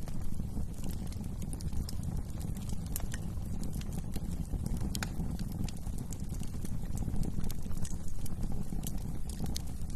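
Wood fire crackling and popping with irregular sharp snaps over a steady low rumble of the burning flames.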